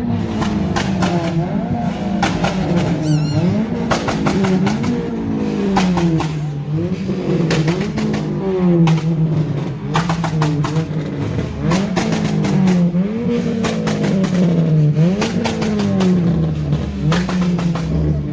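A car engine being revved over and over: its pitch jumps up and falls back about once a second, with sharp cracks in between.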